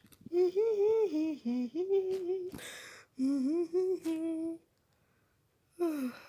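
A cartoon character's voice humming a short melody in two phrases of held and sliding notes, then a brief falling vocal sound near the end.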